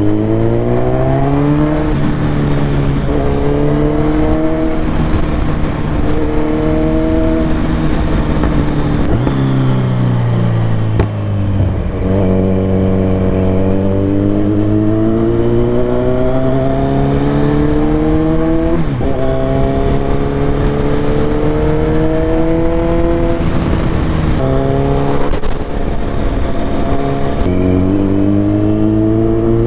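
Kawasaki Z900's inline-four engine pulling through the gears on the move. Its note climbs and drops sharply at each upshift, several times, and about a third of the way in it dies away as the bike eases off before building again.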